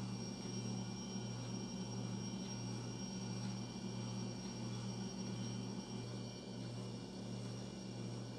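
A low, steady drone that swells and fades a little under twice a second, with a thin high whine above it: an ominous ambient drone from a horror score.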